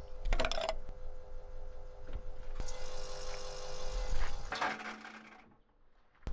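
Electric fuel pump humming steadily while the diesel's fuel lines are bled of air, with rattling and clattering over it: a short burst near the start and a longer noisy stretch from about the middle, ending in a louder burst before the sound drops away.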